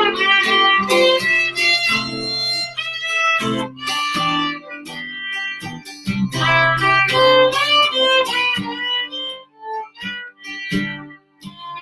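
Instrumental break of an Irish folk song: a fiddle playing a quick melody over a strummed acoustic guitar.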